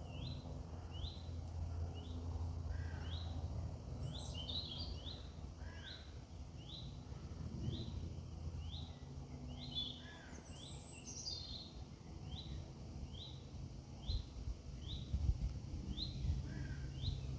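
A bird repeats a short rising chirp about twice a second, with other birdsong breaking in now and then, over a steady low background hum.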